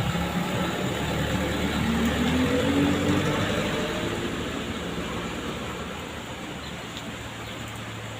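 Truck engine revving, its pitch rising for a couple of seconds, then growing fainter. A steady rain-like hiss runs underneath.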